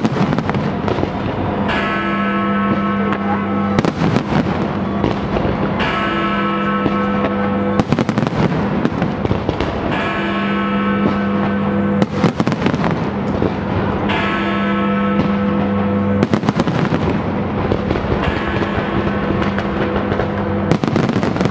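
Fireworks display going off continuously, with many sharp bangs and crackles, over music of long held tones that sound for about two seconds at a time in a regular alternation.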